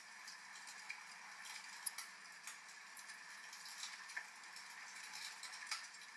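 Wood fire crackling, with irregular sharp pops and snaps over a steady hiss of rain; the loudest pops come about two seconds in and near the end.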